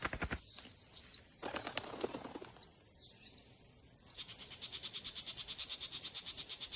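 Bird calls: a series of short, high chirps, each sweeping upward, spaced well under a second apart, then about four seconds in a fast, even, high trill of about ten notes a second.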